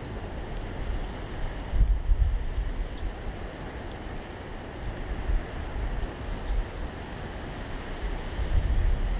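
Wind buffeting the microphone: a low, gusty rumble under a steady noise haze, with stronger gusts about two seconds in and near the end.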